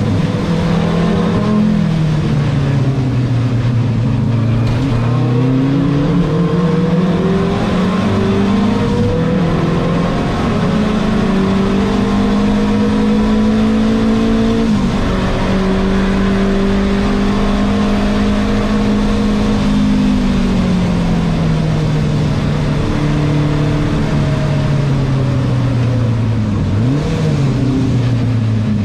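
Renault 5 Turbo 2's mid-mounted turbocharged four-cylinder engine under race load, heard from inside the cabin, its pitch rising and falling through gear changes. There is a sudden drop about halfway through as it shifts up, a long fall in revs later on, and a quick blip near the end on a downshift.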